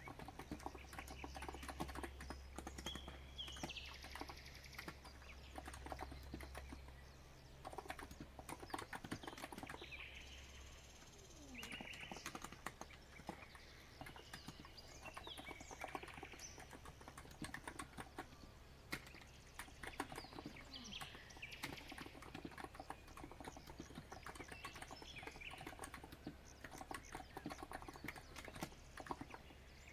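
Continuous typing on a COX Empress electrostatic-capacitive (non-contact) keyboard: a quick, uneven run of soft keystrokes. Birds chirp and sing over the typing throughout.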